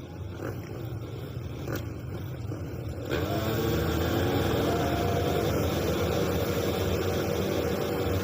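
A field of motocross bikes at the starting gate: engines running and revving, then about three seconds in a sudden jump as the pack launches at full throttle. Many engine notes rise in pitch together and then hold at a high, steady level.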